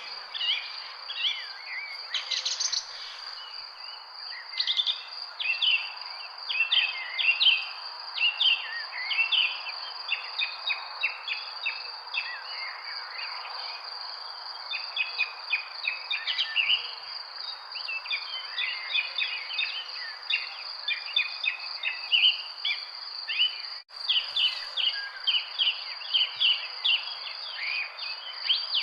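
Many small birds chirping in quick, overlapping short notes over a steady high insect trill and a soft background hiss. The sound cuts out for an instant about 24 seconds in.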